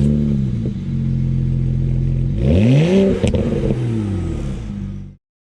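A BMW engine just after start-up: its idle flare settles, then one throttle blip about two and a half seconds in, rising and falling back to idle. The sound cuts off suddenly about five seconds in.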